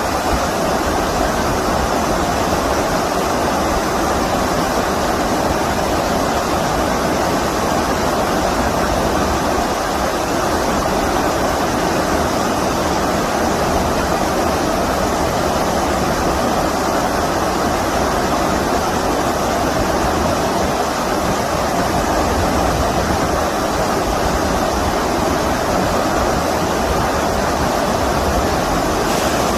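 Stream water rushing steadily, an even, unbroken sound of flowing water.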